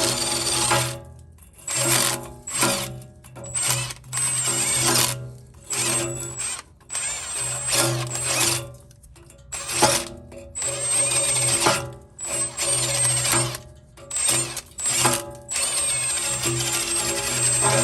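Power tool, a drill or impact-type driver working on exhaust bolts, run in short trigger bursts that stop and start about a dozen times, with a high motor whine each time it spins.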